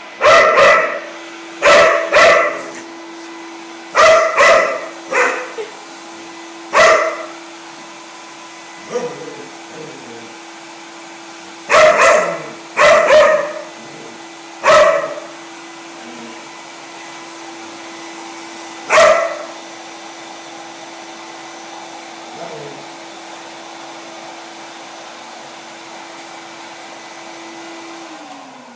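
Dog barking at a running vacuum cleaner: a dozen or so sharp barks, singly and in pairs, over the vacuum motor's steady hum. The barks stop after about twenty seconds, and near the end the vacuum is switched off, its hum falling in pitch as the motor winds down.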